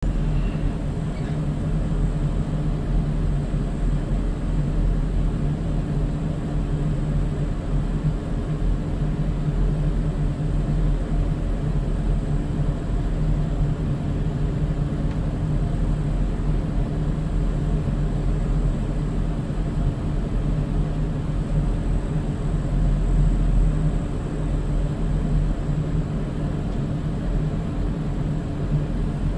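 A vehicle running with a steady low drone that holds even throughout, with a faint, thin, high steady whine above it.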